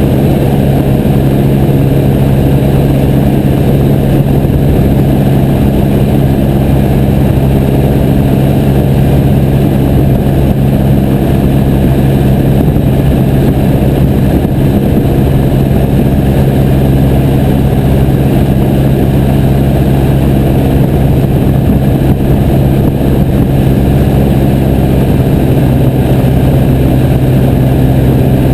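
Piper J3 Cub's engine and propeller running at a steady speed in flight: a loud, even drone heard from on board.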